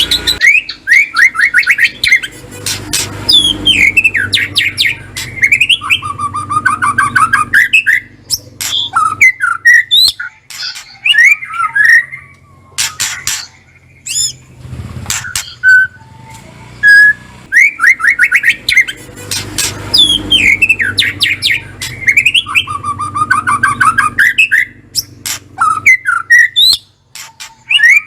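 White-rumped shama (murai batu) calling: rapid rattling 'kretekan' trills mixed with sweeping whistled phrases and sharp clicking notes. The same string of phrases comes round again later on.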